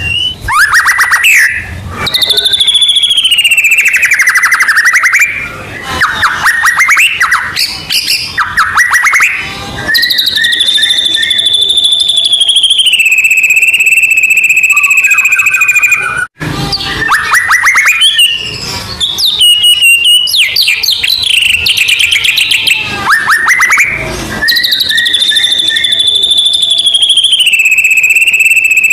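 White-rumped shama (murai batu) singing loudly and without pause: rapid trills and chattering phrases mixed with long clear whistles that step down in pitch, the long whistled phrase coming twice.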